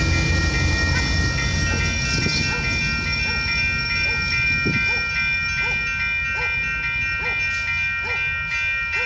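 Passenger train rolling away down the track just after passing: its low rumble fades over the first few seconds, while a steady high ringing of several tones holds on.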